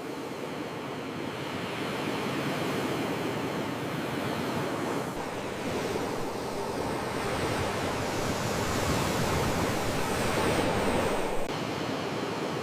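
Sea waves washing ashore: a continuous rush of surf that grows louder through the middle and eases off near the end.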